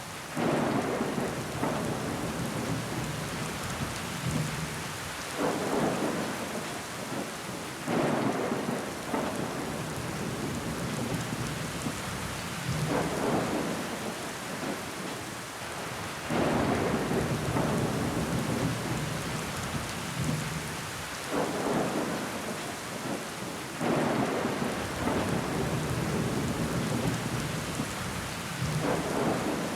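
Rain falling steadily against window glass, with water running down it. Heavier surges swell up every few seconds and fade again.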